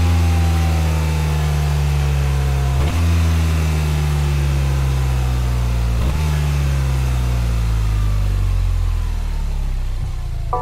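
BMW R 12 nineT's 1,170 cc air/oil-cooled boxer twin running loud, its pitch sliding slowly down over each of three stretches and jumping back up between them, about 3 and 6 seconds in.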